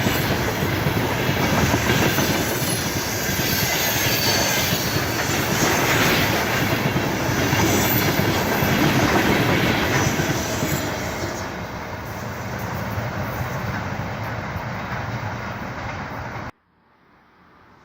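Freight train wagons rolling past on the rails, wheels clattering and squealing. The noise eases off somewhat in the second half, then cuts off abruptly near the end.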